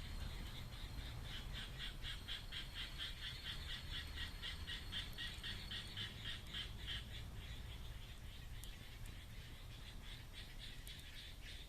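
An animal calling: a fast run of short high-pitched calls, about five a second, that stops after several seconds and starts again near the end.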